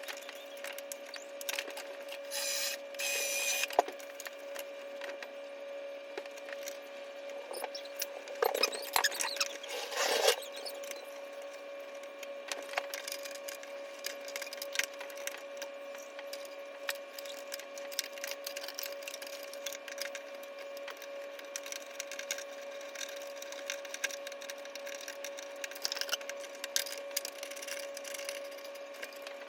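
Hand tools and metal parts being worked while bolting a bracket onto a motorcycle: scattered clicks, clinks and scrapes, with brief rasping bursts about three seconds in and again around ten seconds in. A steady faint hum runs underneath.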